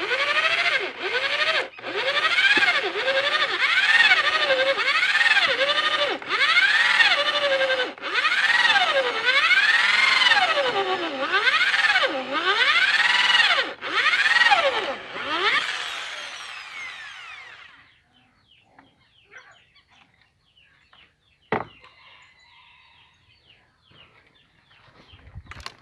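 Electric drill, a 220-volt model running on a 110-volt supply, drilling with its motor whine swooping up and down again and again as it bogs and picks up, cutting out briefly a few times; it is running weak from the under-voltage. About two-thirds of the way through it winds down and stops, and a single sharp knock follows a few seconds later.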